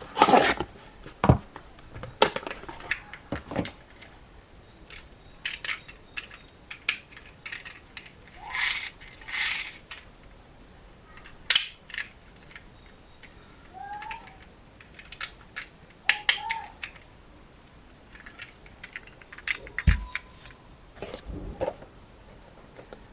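Toy parts and plastic packaging being handled: scattered clicks and knocks with a few rustles, and a couple of brief squeaks.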